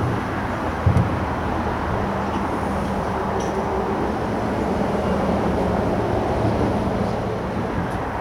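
Steady road traffic noise from the A14 bridge, a continuous rushing drone with a low hum, broken by two short low thumps, one at the very start and one about a second in.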